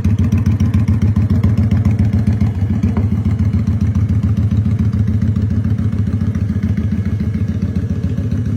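Kawasaki Vulcan 900 V-twin with Vance & Hines exhaust pipes, running steadily with a loud, rapid pulsing exhaust note.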